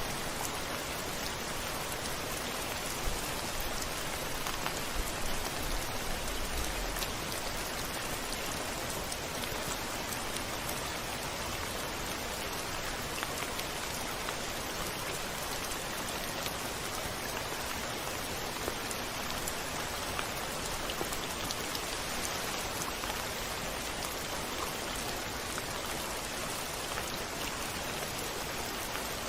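Steady rain on a window, an even hiss with scattered drops tapping, and a brief low rumble about six seconds in.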